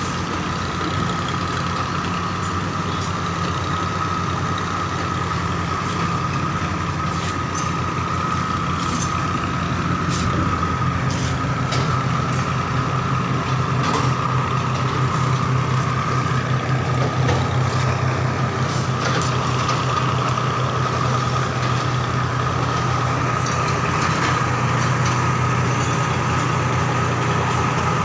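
Steady low mechanical hum, like a motor or engine running, with a constant higher whine above it; it gets slightly louder about ten seconds in.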